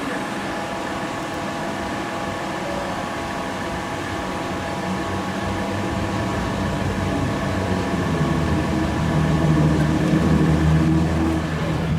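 A motor running steadily with a thin whine, joined by a deeper engine drone that grows from about halfway through and is loudest near the end.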